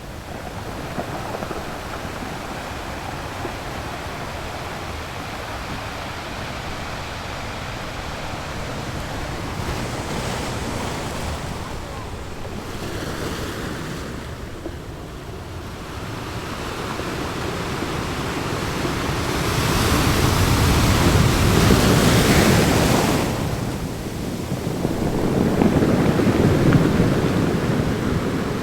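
Sea waves breaking on a rocky shore, a steady wash of surf that swells into two louder crashes in the second half, the first about two-thirds of the way through and the second near the end.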